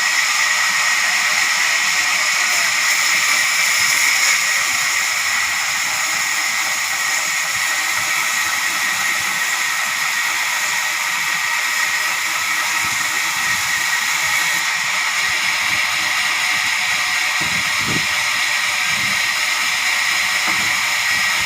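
Sawmill saw running steadily: a loud, even high-pitched hiss and whine, with a couple of brief low thuds near the end.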